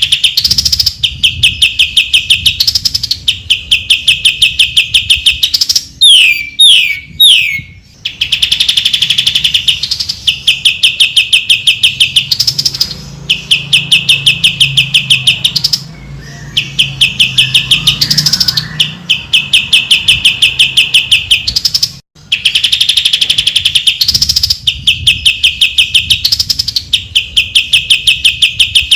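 Greater green leafbird (cucak ijo) song used as a training master: long, very rapid, high trills broken by quick down-slurred notes. The same sequence of phrases comes round about every seven seconds, like a looped recording.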